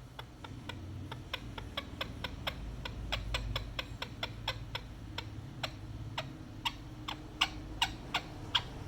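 Ring-necked parakeet giving a rapid run of short, sharp calls, about three a second, over a low steady hum.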